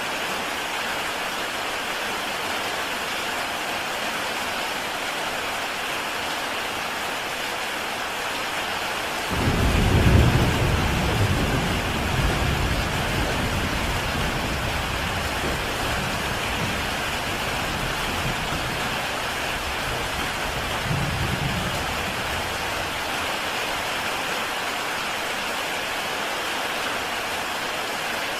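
Heavy rain falling steadily on a tile roof. About a third of the way in, a deep rumble of thunder breaks in suddenly, loudest at its start, and rolls on for over ten seconds with a second swell before dying away.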